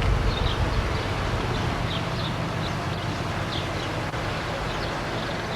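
Small birds chirping, short high chirps every second or so, over a steady low rumble.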